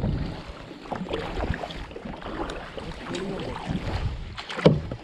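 Paddling a kayak: water splashing and irregular knocks from the paddle strokes, over a low rumble on the microphone. A sharp knock comes near the end.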